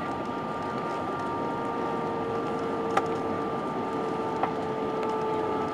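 Airbus A320-232 cabin noise: the IAE V2500 jet engines and air rush give a steady hiss with a steady engine whine, its tones shifting slightly partway through. Two sharp clicks sound about three seconds in and again about a second and a half later.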